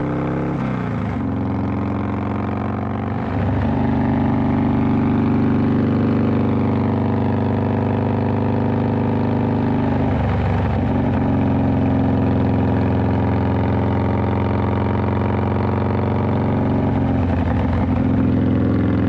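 Harley-Davidson V-twin motorcycle engine running steadily while riding, its pitch dipping and settling again a few times, a little louder after about three seconds.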